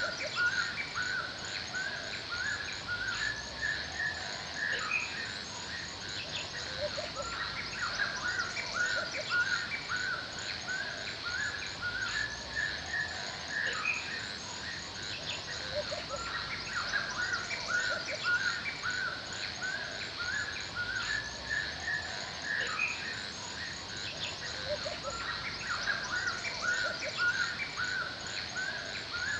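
Forest ambience: many birds chirping and calling in quick, overlapping short notes over a steady high insect hum.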